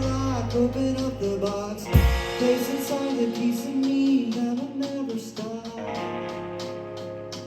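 Live rock band at the close of a song: a loud held low note cuts off with a sharp hit about two seconds in, then wavering singing and ringing instruments trail off and fade.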